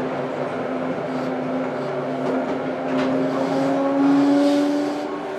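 Toei 5300 series subway train running, heard inside the car, its traction motors whining and rising slowly in pitch as it gains speed over the rumble of wheels on rail.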